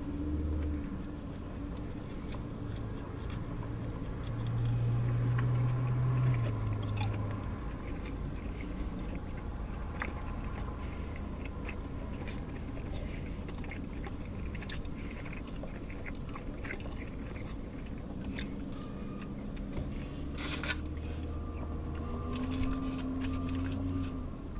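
A person chewing and biting food close to the microphone, with scattered crunches and smacking clicks, over a low steady hum.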